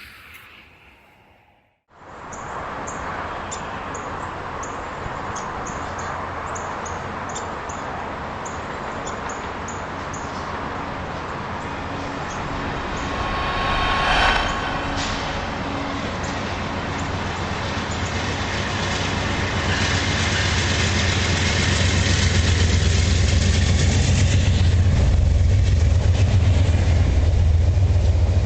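A train running on rails, a steady rolling noise that swells briefly about halfway through and then builds into a heavier, louder rumble over the last several seconds.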